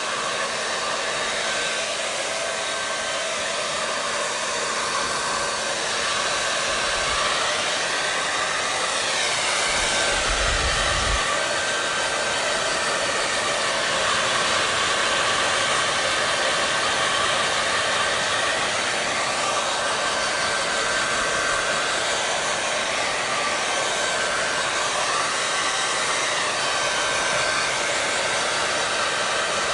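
Hair dryer blowing steadily: an even rushing whoosh with a faint constant whine, its tone wavering slowly now and then. A brief low rumble comes about ten seconds in.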